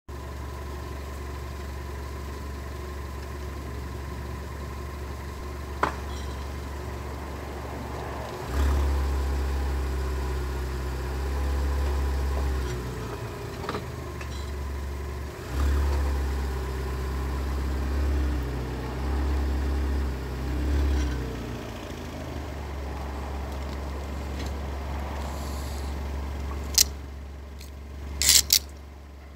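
Car engine idling with a steady low hum that grows louder in two stretches in the middle, as if revved lightly. Near the end come a few sharp clicks.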